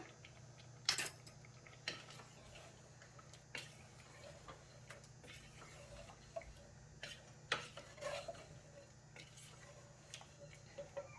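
Faint, scattered clinks and taps of a cooking utensil against a pot, as salt is stirred into braising meat.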